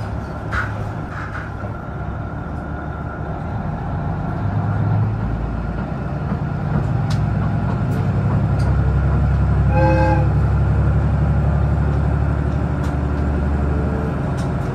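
Train running on the rails, its low rumble growing louder about eight seconds in, with one short horn toot about ten seconds in.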